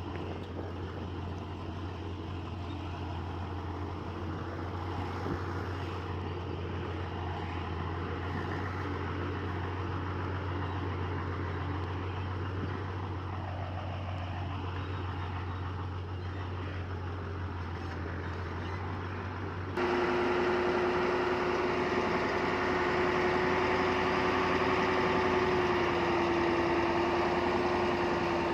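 Heavy earthmoving equipment's diesel engine running steadily with a low hum. About twenty seconds in, the sound switches suddenly to a louder, higher steady engine note.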